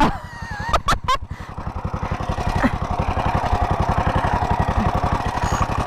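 Vintage 1933 Moto Guzzi motorcycle engine idling with a steady, even rapid beat. Two sharp clicks come about a second in.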